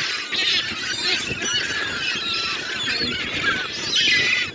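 A crowd of seagulls squealing and calling over one another while squabbling over thrown food, many overlapping shrill cries, loudest near the end.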